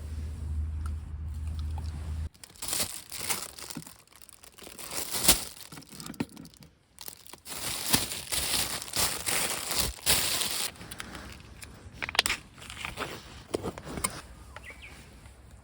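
A low steady rumble that cuts off abruptly about two seconds in, then irregular crinkly rustling as something is handled, with a few sharper crackles.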